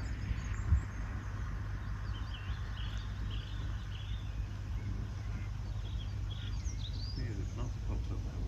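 Small birds chirping and warbling along a loch shore over a low steady rumble, with a single thump about a second in.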